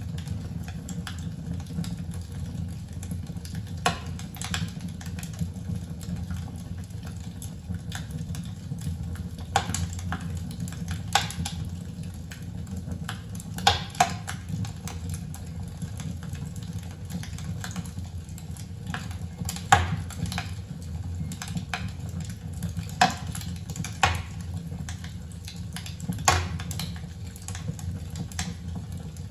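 Crackling log fire played through Pioneer S-101 loudspeakers: irregular sharp pops and snaps over a steady low rumble.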